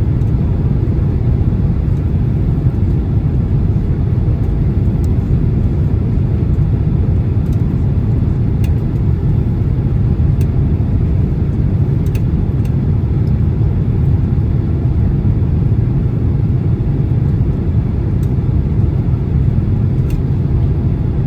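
Steady cabin roar of a Boeing 767-300 on a turbulent final approach: engine and airflow noise heard from inside the passenger cabin, dominated by a deep rumble. A few faint clicks sound here and there.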